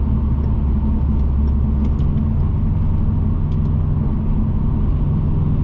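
Subaru Impreza WRX's turbocharged EJ20 flat-four engine running while the car drives on, over steady road noise. The engine note changes about two seconds in.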